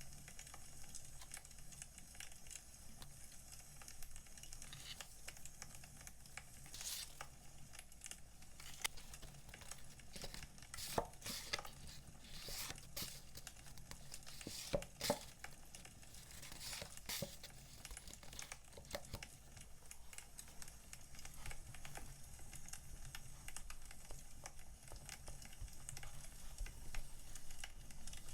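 Firewood fire crackling, with scattered sharp pops, the loudest of them bunched in the middle, and a light rustle of packaging being handled.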